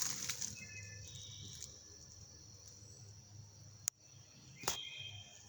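Steady high-pitched insect chorus in the woods, with a few faint short bird-like calls and two sharp clicks about four and five seconds in.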